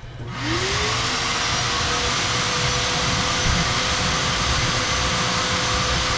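Shop vacuum switched on: its motor whine rises over about a second and then runs steadily, with a loud steady rush of air.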